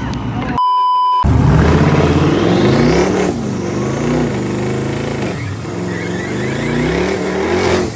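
A short censor bleep, then a V8 car accelerating hard down the track: the engine note climbs and drops sharply at each of several upshifts.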